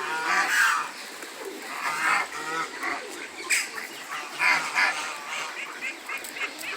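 A flock of waterfowl calling: many short, overlapping honks and calls from geese and ducks.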